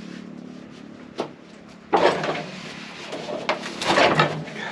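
Wooden knocks and scraping thuds of a heavy spruce cant being rolled over on the sawmill bed: one sharp knock about a second in, a rough scrape about two seconds in, then several knocks near the end, over a steady low hum.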